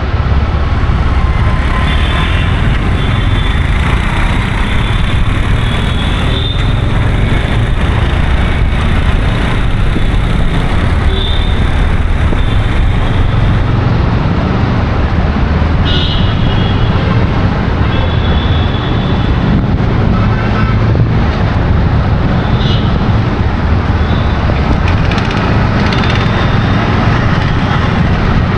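Steady road traffic noise with a constant low rumble, broken now and then by short high-pitched tones.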